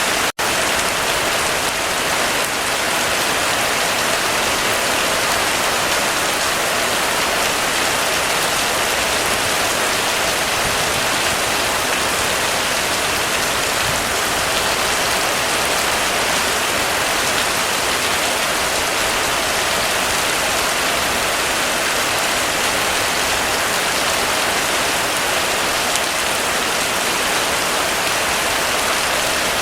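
Heavy rain falling steadily, a dense, even hiss of drops on surfaces with no breaks in intensity. A split-second dropout in the sound comes just after the start.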